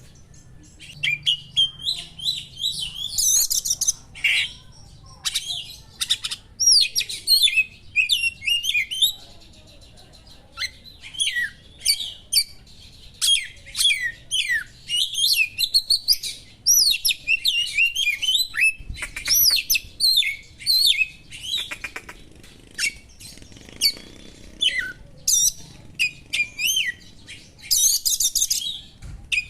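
Oriental magpie-robin (kacer) singing a fast, varied song of sharp whistles, trills and chatter, mixed with mimicked calls of small birds, in bursts separated by short pauses.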